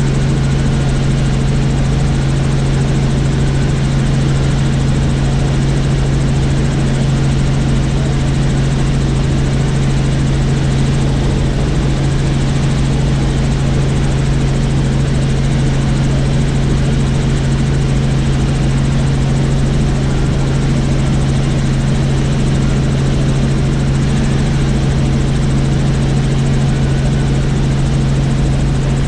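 Helicopter in flight, heard from the cabin: a steady, loud drone of rotor and turbine with a strong low hum that does not change.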